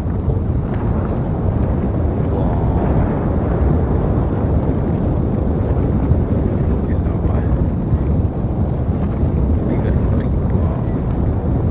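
Active volcano's lava vent rumbling steadily, a deep continuous roar with no pauses.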